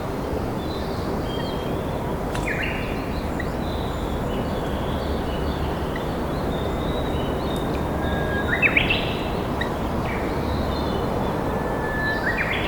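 Japanese bush warbler (uguisu) singing its hoh-hokekyo song twice: a long held whistle, then a quick rising flourish, over the steady rush of a flowing river. Thin high chirps from other small birds come and go.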